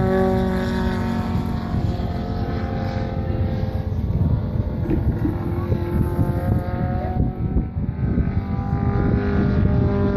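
The five-cylinder rotary engine of a 1/4-scale RC Pitts Special runs with a steady droning note. The note fades after a second or two and comes back near the end, while wind buffets the microphone.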